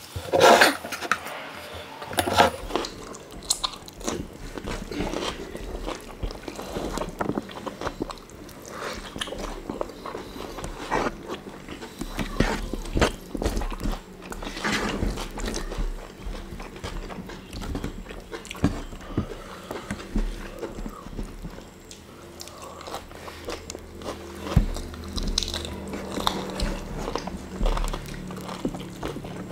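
Close-up eating sounds: people chewing and biting fried chicken and rice eaten by hand, with irregular crunches and wet mouth clicks throughout.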